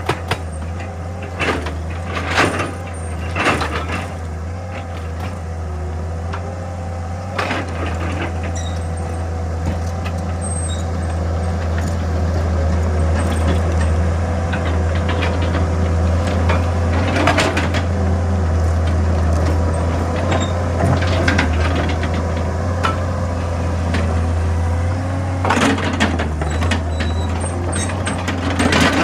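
Excavator engine running steadily under load with a steady hydraulic whine, growing louder about a third of the way in. Scattered sharp knocks and clanks of the machine working rock, most of them near the start and near the end.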